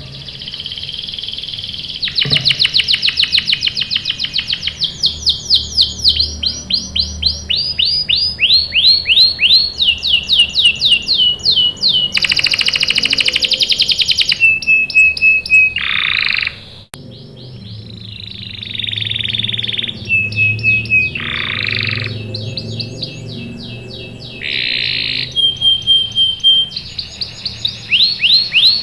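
Domestic canary singing a long, continuous song of fast repeated trills and rolls, with a few held whistled notes between phrases and a short pause about two-thirds of the way through.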